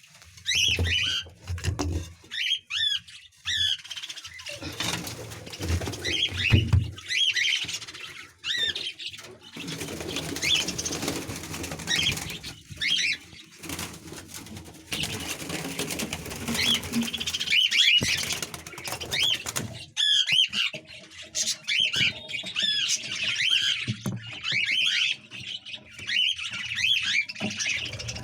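A flock of budgerigars chattering, with many short, quick chirps overlapping, broken by stretches of rustling noise.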